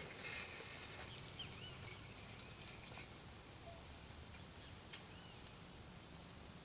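Faint bird chirps: two short rising-and-falling notes about a second and a half in and another pair about five seconds in, over quiet outdoor background.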